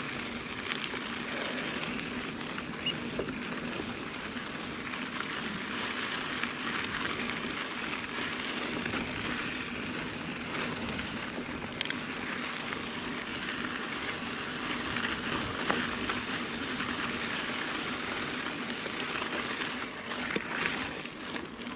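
Mountain bike rolling on a dirt trail: a steady crackle of tyres on gravel, with a faint steady hum and a few small clicks.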